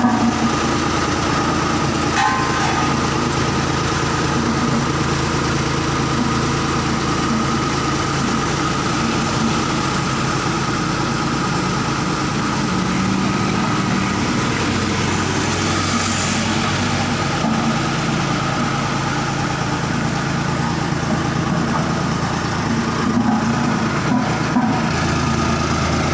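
Engine of road-works machinery running steadily at idle, with a few short knocks near the end.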